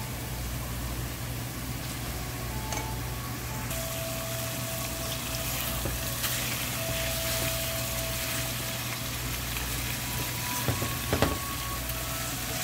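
Fried boal fish pieces sizzling in hot oily onion-tomato masala in an aluminium pot, a steady hiss over a low steady hum. Near the end a spatula knocks and scrapes against the pot several times as the fish is moved.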